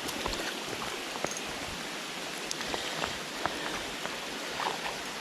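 Steady rain hissing with scattered faint drop ticks, over the rush of a flowing creek.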